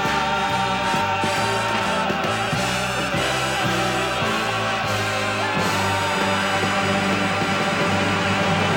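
Country-gospel singers with a backing band holding a long final note to close the song, the band playing out the ending.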